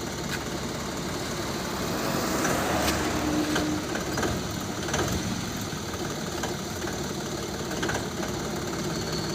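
SANMAN 6000 tractor engine running steadily.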